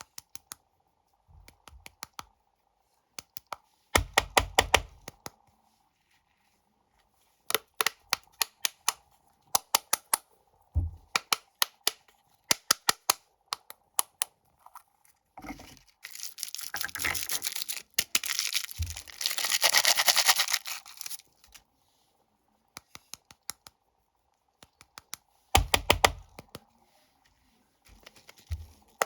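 Snack wrappers being crinkled and torn open by hand: scattered clusters of sharp crackles, with a longer stretch of dense tearing and rustling near the middle.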